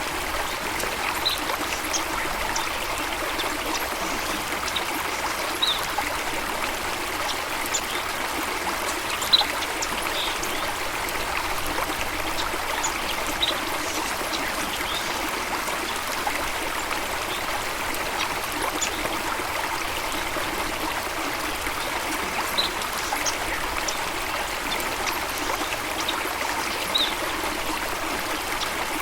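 Flowing water of a stream running steadily, an even rushing and trickling, with brief faint high sounds scattered through it.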